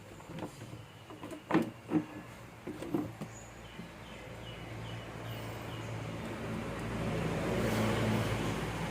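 A few sharp knocks and clicks, then a motor vehicle's engine growing steadily louder as it approaches, loudest near the end.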